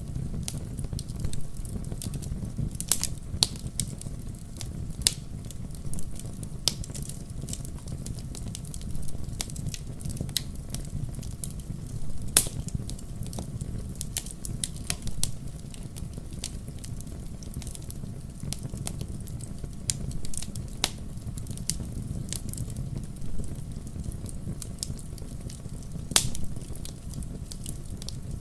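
Wood campfire burning, with a steady low rumble of the flames and irregular sharp crackles and pops, a few of them louder than the rest.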